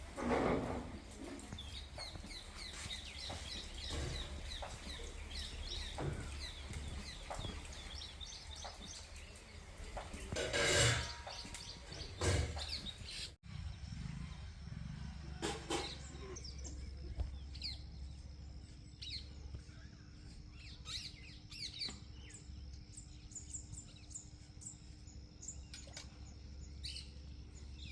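Small birds chirping: quick runs of short high calls, then scattered chirps, over a low rumble. A few louder bumps come about half a second in and twice about halfway through.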